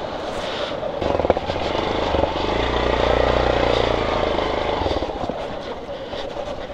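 Hero XPulse 200 motorcycle's single-cylinder engine running under load as the bike is ridden over rough ground, louder for a couple of seconds in the middle, then easing off. There is a sharp knock just over a second in.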